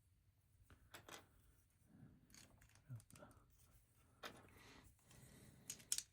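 Faint handling of plastic LEGO pieces: a scattering of small sharp clicks as parts are picked up and pressed together, with some soft rustling. The sharpest clicks come near the end.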